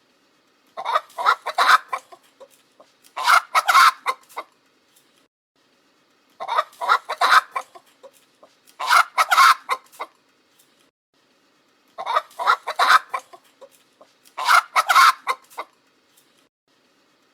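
Chickens clucking and squawking in short harsh bouts, six bursts in three evenly spaced pairs with silent gaps between them.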